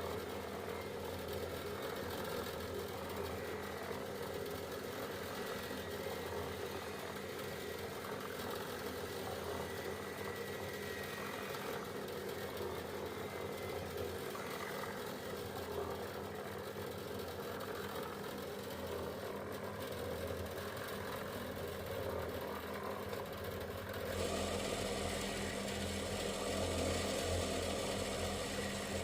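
An engine running steadily with a low hum. About three-quarters of the way through it grows a little louder and brighter.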